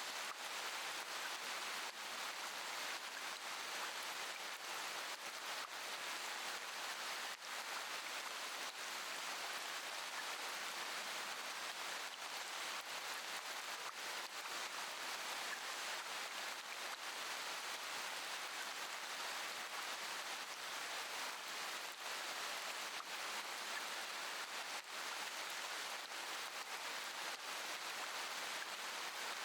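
Steady rain: an even hiss with scattered faint drop taps.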